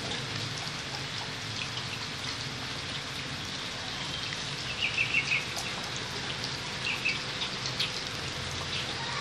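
Steady rain pattering with scattered drip ticks, and two short runs of quick high chirps, about five seconds in and again near seven seconds, in the manner of a small bird.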